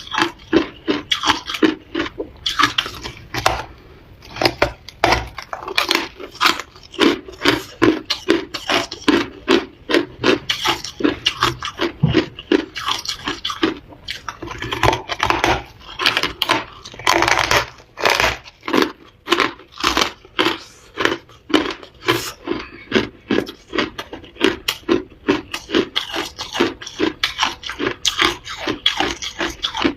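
Ice being bitten and chewed close to the microphone: a continuous run of sharp crunches, a few each second.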